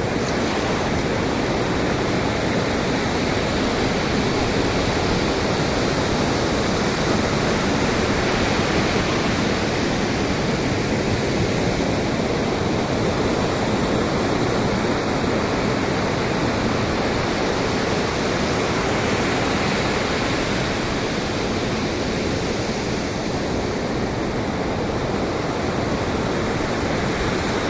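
Pacific Ocean surf and wind: a dense, steady wash of breaking waves with only slight, slow swells in loudness.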